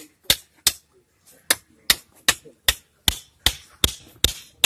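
Hammer blows struck at a steady pace of about two and a half a second, each a sharp ringing knock, with a short pause about a second in.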